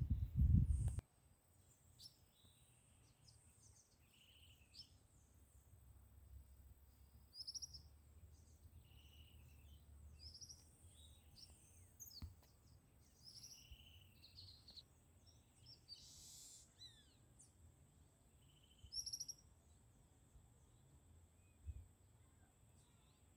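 Wild birds calling with short, sharp high notes, scattered and repeated every few seconds, over a steady thin high-pitched tone. A low rumble fills the first second.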